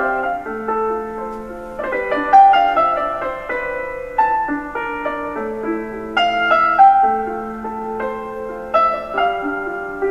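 Background music: a gentle solo piano melody, notes struck and left to ring.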